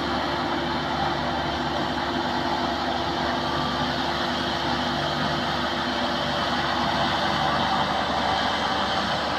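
Heavy engine running steadily at an even pitch, with no revving, from the combine harvester or the truck it is loaded onto.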